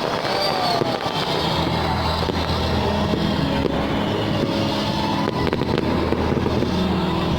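Fireworks display in progress: a dense, continuous run of crackling and bangs from aerial shells, with a short whistle about half a second in and a steady low hum underneath.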